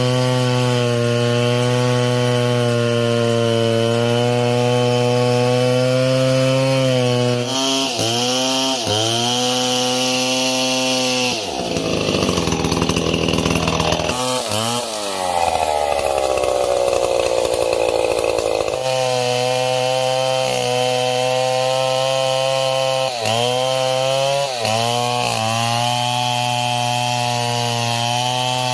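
Two-stroke chainsaw running at high revs, cutting wood. Its pitch dips and recovers several times, with a longer drop near the middle.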